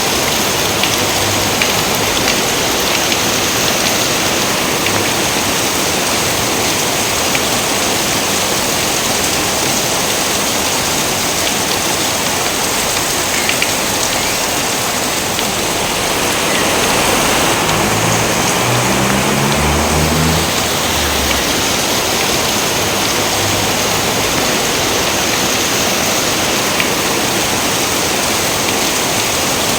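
Steady heavy rain pouring down, a dense even hiss, with a low rumble swelling briefly a little past the middle.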